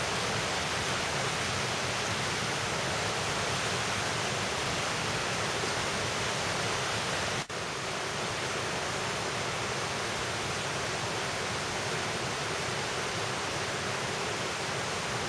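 Rushing water of a valley stream and waterfall, a steady dense hiss, broken by a momentary dropout about halfway through.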